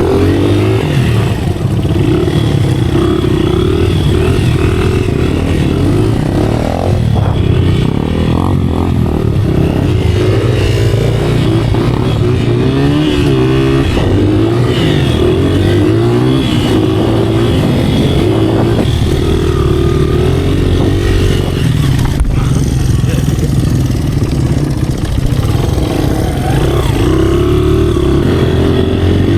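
A motorcycle engine running, its pitch rising and falling unevenly as the throttle is worked.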